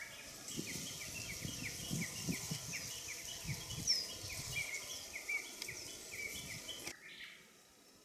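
Bird song: a rapid run of short, downward-sliding notes, several a second, with other bird calls higher up. It cuts off abruptly about seven seconds in.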